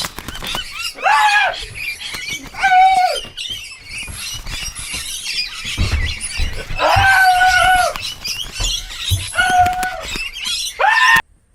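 A bird giving loud, repeated cries, each one rising and then falling in pitch, with the longest one held for about a second a little past the middle.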